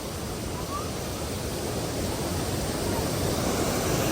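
Steady rushing roar of a waterfall, growing gradually louder.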